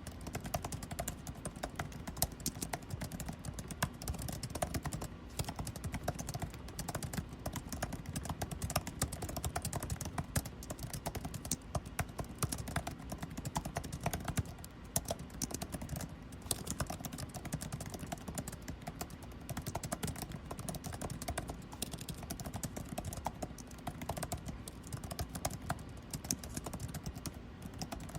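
Computer keyboard typing: rapid, irregular keystrokes that run on without a break, over a steady low hum of air conditioning.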